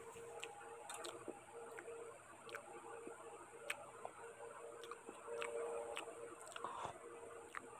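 Mouth sounds of someone chewing a mouthful of rice and curry: scattered sharp wet clicks and smacks at irregular intervals. An electric fan hums steadily underneath.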